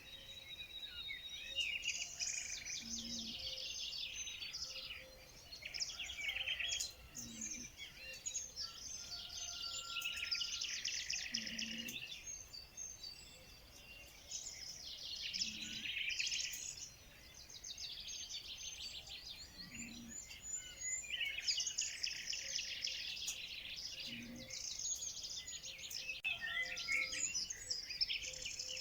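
Several songbirds singing and calling over one another in fast trills and chirps, with a short low note repeating about every four seconds beneath them.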